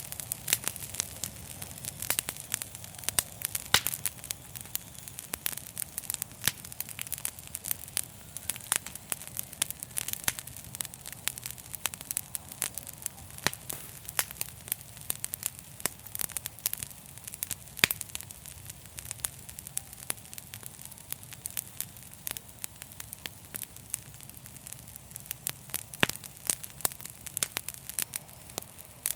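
Wood fire burning in a fireplace: dense, irregular crackles and pops over a steady low rumble of flames.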